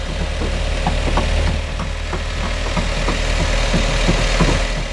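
Nissan March K11's four-cylinder petrol engine idling: a steady low hum with scattered light clicks and ticks over it.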